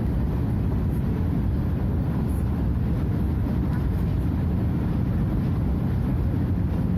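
Scania DC09 nine-litre five-cylinder diesel of a Scania F250HB bus running steadily under way, a continuous low rumble with no change in pitch.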